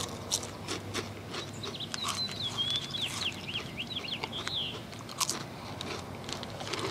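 Close-up chewing and crunching of a thin, crisp cream-filled wafer, a string of sharp crunches and clicks. In the middle a bird sings a warbling, whistled phrase for about three seconds.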